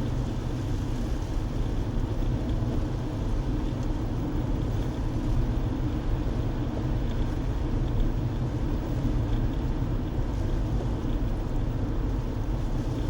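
Steady road and engine noise of a moving car, heard from inside the car.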